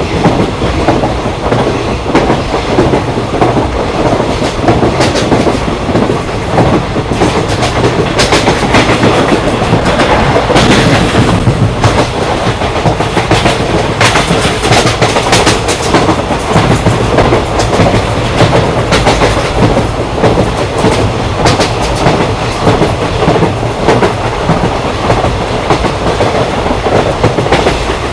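Train running along the track: a steady rumble with the clickety-clack of wheels over rail joints, and many sharp clicks, thickest midway through.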